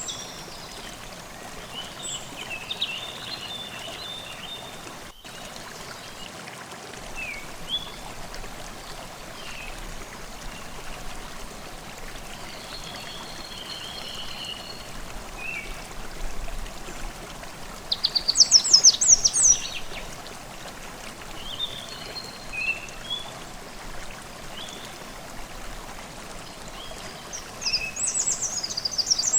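Forest stream babbling steadily, with birds singing over it in short scattered calls. The loudest is a quick run of high, rapid notes a little past the middle, with another starting near the end; about five seconds in the sound drops out for a split second.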